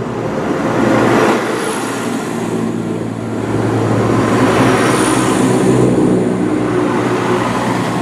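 Class 172 Turbostar diesel multiple unit pulling away under power, its diesel engines running with a steady pitched drone that swells about a second in and again about four seconds in.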